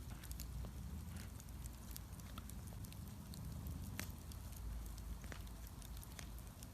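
Bonfire crackling, with scattered sharp pops, the loudest about four seconds in, over a low rumble.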